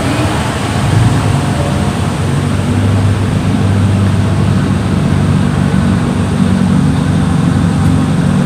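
A car engine running steadily at low revs, with its pitch edging up slightly past the middle.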